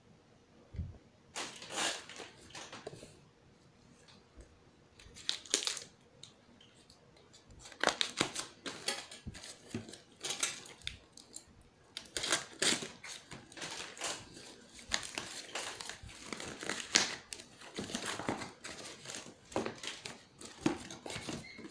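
A package being opened by hand: plastic and paper packaging crinkling, rustling and tearing in irregular bursts, with small clicks and knocks.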